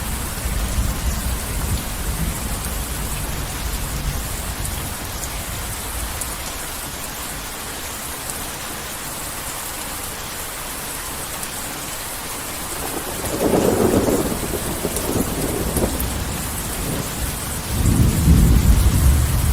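Heavy rain falling steadily, with thunder: a low rumble that fades over the first few seconds, a sharper thunderclap about thirteen seconds in, and a deep rolling rumble near the end.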